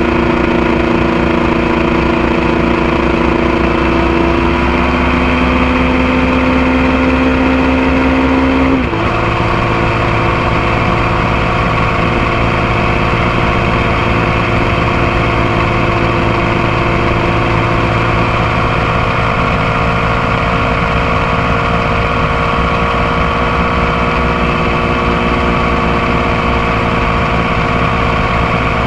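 Motorcycle engine running under way, its pitch climbing slowly as it accelerates, then dropping sharply at a gear change about nine seconds in before settling at a steady cruise, with wind and road noise throughout.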